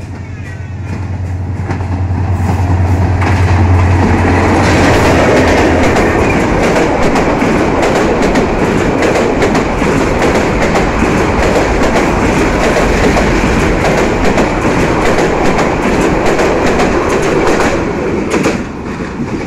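Passenger train passing close by: the diesel locomotive's engine hum swells as it comes past in the first few seconds, then the coaches roll by with a steady clickety-clack of wheels over the rail joints. The noise drops off near the end as the last coach passes.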